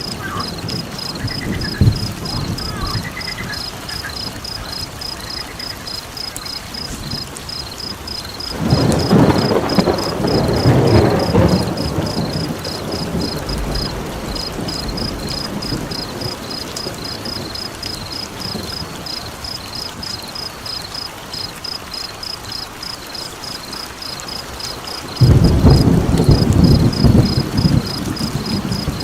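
Looped nature ambience: a steady train of high chirps, about three a second, runs over a rain-like hiss. Two loud low rumbles rise out of it, one about nine seconds in lasting some three seconds, the other starting suddenly near the end.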